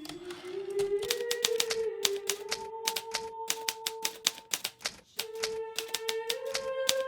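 Hermes Baby portable typewriter keys striking in quick succession, with a brief pause in the typing about two-thirds through. Soft background music with long held notes plays underneath.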